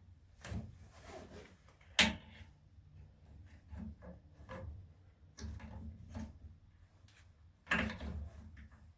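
Scattered knocks and clatter of things being handled, with a sharp knock about two seconds in and a longer clatter near the end, over a low steady hum.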